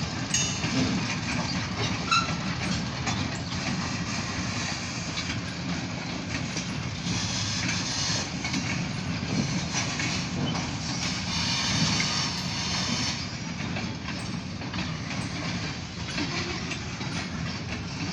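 Freight cars of a long train rolling past on the rails: a steady rumble of wheels with occasional clicks, and a stretch of brighter hiss in the middle.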